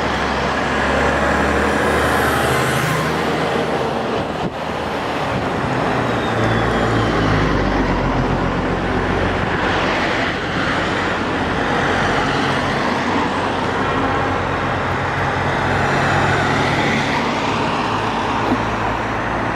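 Heavy trucks driving past one after another in a convoy, their diesel engines running under steady traffic noise, with a brief dip in the sound about four seconds in.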